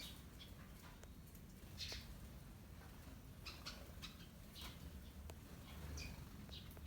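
Small seed-eating birds giving short, high chirps every second or so, scattered and irregular, while feeding in a flock; the loudest chirp comes about two seconds in.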